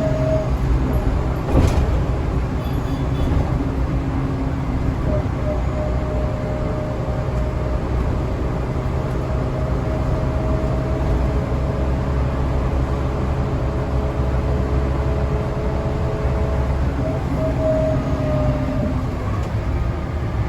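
Scania L94UA city bus running under way, its diesel engine giving a steady low rumble with a whine held at one pitch through most of the stretch. A single sharp click about a second and a half in.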